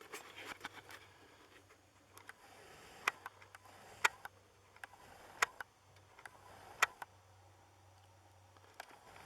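Four sharp clicks about a second apart among a few fainter ticks, over a faint steady low hum.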